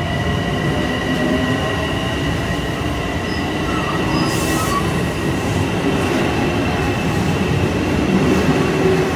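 Metro-North M7 electric multiple-unit train pulling out of the station: a steady rumble of wheels and motors with a constant high-pitched whine over it.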